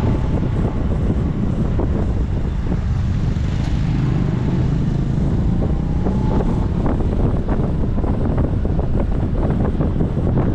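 Engine running steadily under heavy wind buffeting on the microphone, a dense low rumble with gusts in the second half.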